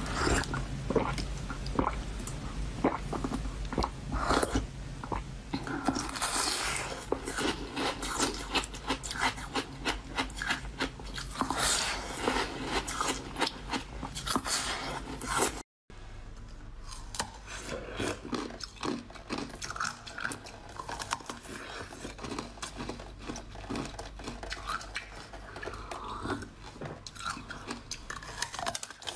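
Close-up crunching bites and chewing of frozen food, with a steady low hum underneath. It cuts out for a moment about 16 seconds in, then quieter biting and chewing follows.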